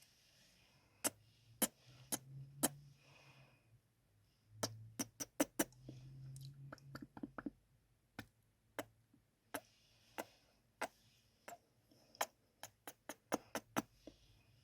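Close-miked kissing sounds: sharp wet lip smacks and pops, some spaced about half a second apart and some in quick runs of several a second, with soft breathing between them.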